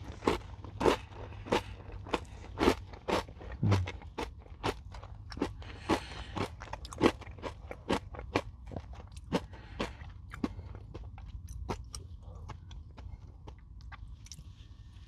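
A person chewing a crunchy Nature Valley granola bar close to the microphone, with a crisp crunch at each bite-down, about two a second at first, then fainter and more spaced out over the last few seconds.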